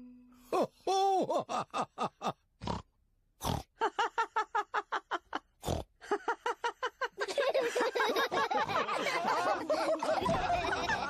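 Cartoon pigs snorting and laughing in quick repeated bursts. About seven seconds in, more voices join in a dense, overlapping group laugh.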